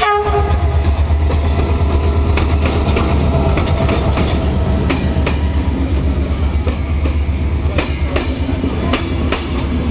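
Locomotive-hauled passenger train rolling slowly past alongside a platform: a steady low rumble with irregular clickety-clack of the wheels over rail joints as the locomotive and then the coaches go by.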